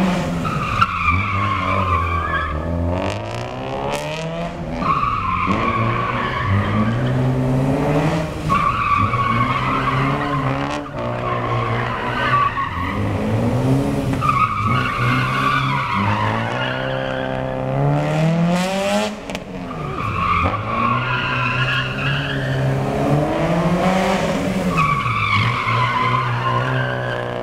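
Honda Civic engine and exhaust revving hard, rising and falling over and over, with the tyres squealing each time the car slides through the gymkhana turns.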